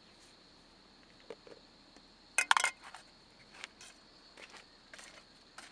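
Scattered light clinks and knocks of cooking pots and tea things being handled, with a louder cluster of clinks about two and a half seconds in.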